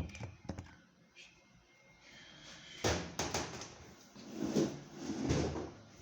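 Knocks, clicks and scraping of washing-machine parts being handled and moved during disassembly. There are a few sharp clicks near the start, a heavier knock about three seconds in, then rubbing and bumping.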